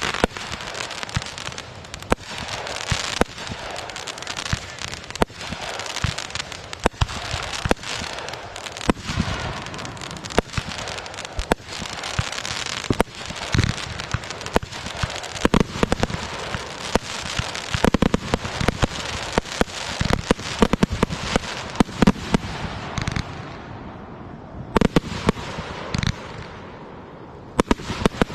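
Fireworks going off in a dense barrage of bangs over continuous crackling. It thins out about 23 seconds in, leaving scattered bangs near the end.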